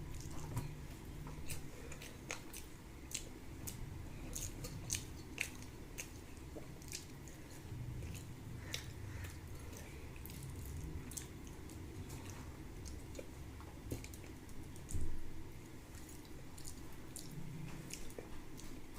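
Close-miked mouth sounds of a person eating rice with fish curry and fried greens: chewing with a steady run of wet smacking clicks, and a single soft thump about fifteen seconds in.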